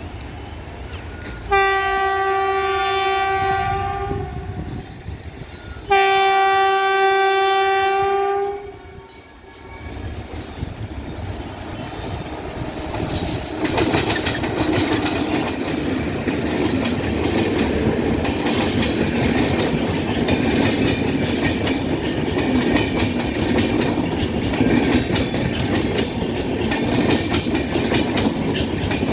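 A train horn sounds two long, steady blasts. Then a train comes through, its wheels and coaches making a loud steady rumble and clatter over the rail joints.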